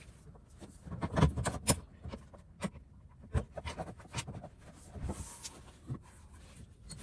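Irregular clicks, knocks and scraping as tools and metal parts are handled during scooter muffler removal. The loudest knocks come about a second in and again near the middle.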